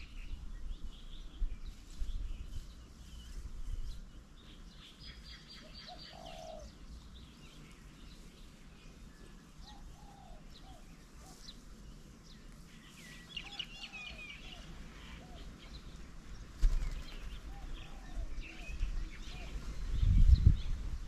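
Several birds calling and chirping at a garden bird table, with short high notes throughout and lower short calls in the middle. A few low thuds, probably wing flaps, come near the end.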